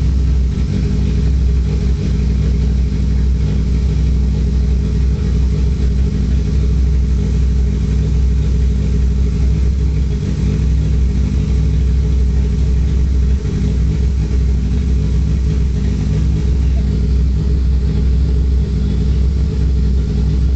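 Turbocharged Honda B18A1 1.8-litre four-cylinder with a GSR head, running on E85, idling steadily on its first start-up and not yet tuned.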